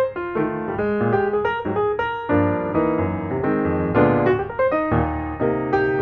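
Background piano music: a melody over chords with a steady stream of notes.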